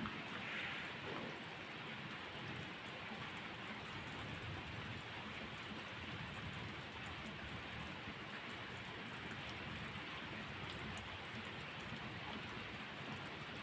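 Steady rainfall: an even, unbroken hiss of rain with fine pattering drops.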